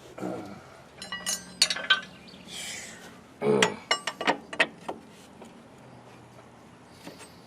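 Metal hand tools and fittings clinking and tapping against each other, a quick run of sharp ringing clinks about a second in and a few more later, with a short hiss about two and a half seconds in.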